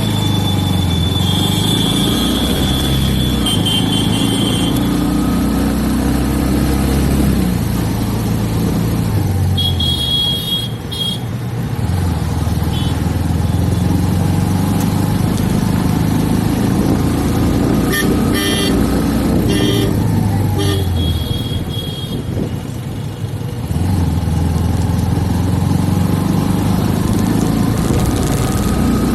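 Motorcycle engine running at road speed with steady road and wind noise, its pitch shifting as speed changes. Vehicle horns toot several times: near the start, about ten seconds in, and in a cluster around two-thirds through.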